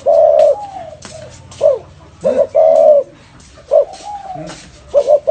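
Spotted dove cooing: a repeating phrase of short coos and longer drawn-out notes, about one phrase every two and a half seconds, with faint scattered clicks in the background.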